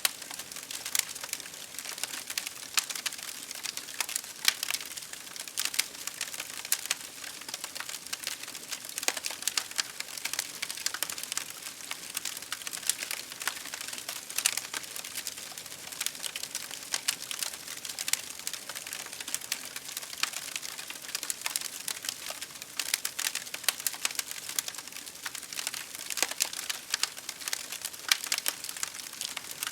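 Campfire crackling: a dense, steady run of small sharp snaps and pops over a constant hiss.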